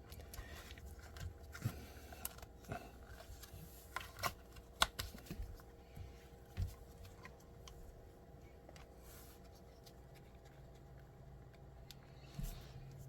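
Small parts being handled on a workbench: a scattered run of light clicks and taps, busiest in the first half, then a quieter stretch with a faint low hum coming in near the end.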